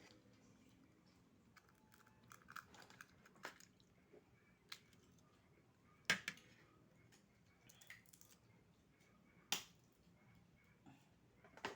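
Quiet sounds of someone eating oysters: soft chewing and scattered small clicks, with sharper clicks about six and nine and a half seconds in.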